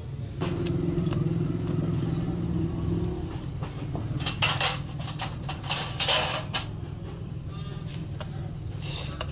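Vehicle engine running steadily, its hum strongest in the first three seconds, with several short bursts of hissing noise about four to six and a half seconds in and again near the end.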